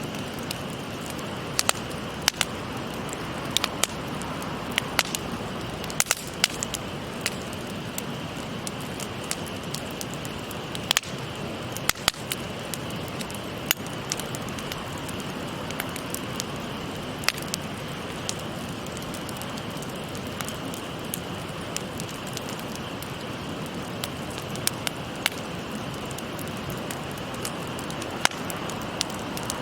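Wood campfire crackling, with sharp irregular pops several times a second, over the steady rush of a shallow stream.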